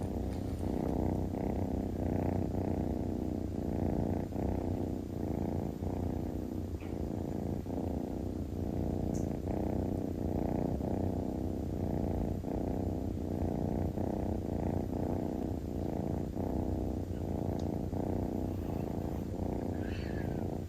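Domestic cat purring steadily at close range, the purr pulsing evenly with its breathing, about three breaths every two seconds.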